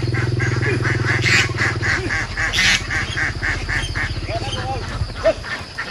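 Ducks quacking in a fast, even series of about five calls a second, with a few separate calls near the end, over an engine running low that weakens about two seconds in and fades out near the end.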